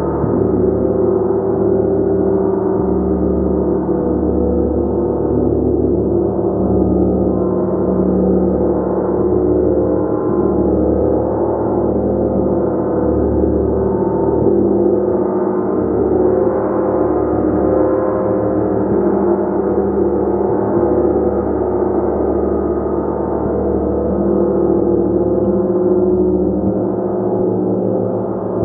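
A gong played continuously: a loud, sustained wash of many overlapping ringing tones. A deep low hum under it throbs every second or two.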